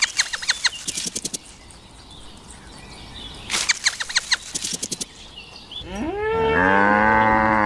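A cow mooing: one long low call that rises in pitch and is then held, starting about six seconds in. Before it come two short runs of rapid sharp clicks, one at the start and one about halfway through.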